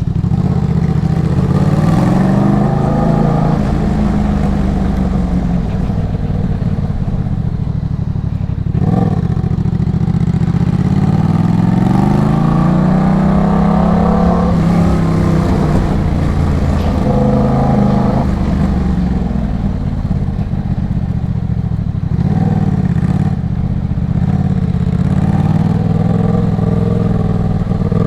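A 2023 Yamaha MT-07's parallel-twin engine running through an Arashi aftermarket exhaust on the move. The exhaust note rises and falls again and again as the bike accelerates and eases off, with one long climb in pitch in the middle.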